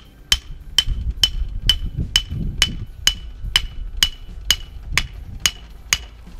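Steady hammering: regular blows about two a second, each with a short metallic ring.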